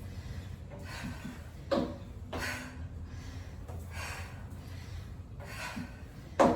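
A person breathing hard, with loud exhalations every second or so during high-intensity exercise, and two sharp thumps, one early and one near the end.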